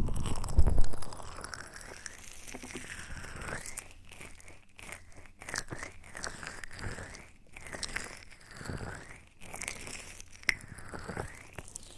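ASMR mouth sounds close to a sensitive microphone: soft wet smacks and clicks repeating about once a second. A louder low rumble fills the first second.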